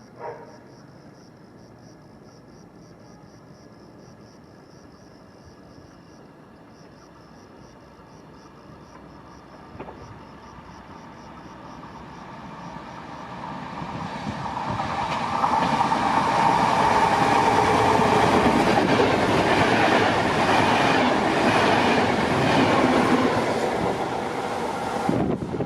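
Train passing through a station at speed: quiet at first, then approaching from about halfway in, loudest for the last ten seconds or so with wheels clattering over the rail joints, and cut off suddenly near the end.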